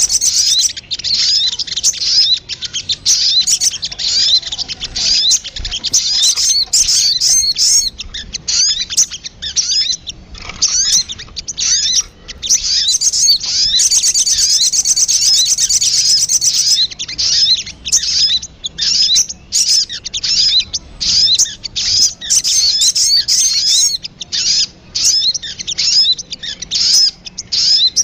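Sogon bird lure call: a fast, high-pitched chirping twitter. Unbroken trills at the start and again about halfway through alternate with choppier runs of quick separate notes.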